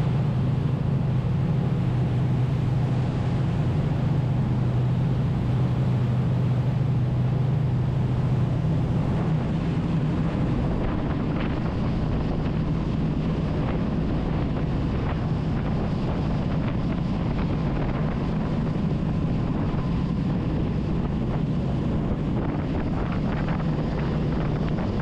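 Tour boat's engine running with a steady low hum, with wind buffeting the microphone; the hum drops back about a third of the way in.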